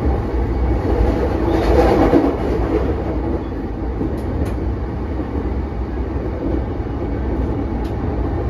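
Running noise heard from inside a JR East E233-5000 series electric commuter train: a steady rumble of wheels on rail and car body that swells briefly about two seconds in, with a couple of faint clicks later on.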